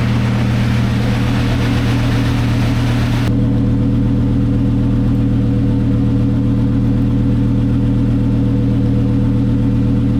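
Twin-turbo Lamborghini Huracán's V10 idling on the dyno: a loud, steady hum at an even pitch. A rushing noise over it cuts off suddenly about three seconds in.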